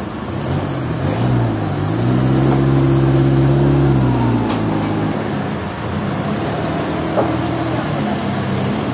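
An engine's speed rises about a second in, holds high for a couple of seconds, then drops back to a steadier lower speed for the rest of the time.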